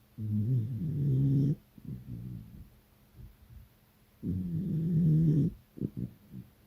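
Beagle snoring in its sleep: two long snores about four seconds apart, each lasting over a second, with short fainter breathing sounds between them.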